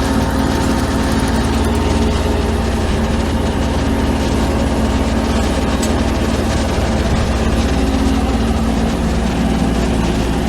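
Heavy construction-machinery engine running steadily with a constant low hum, from the equipment placing concrete culvert pipe.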